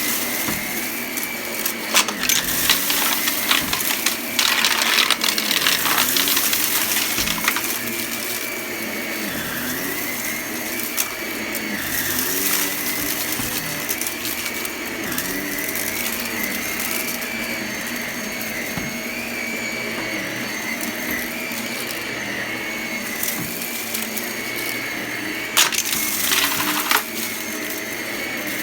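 Vacuum cleaner running steadily, its motor whine wavering slightly as it is pushed back and forth. Bursts of rattling come from sprinkled crunchy debris being sucked up, heaviest about two to six seconds in and again near the end.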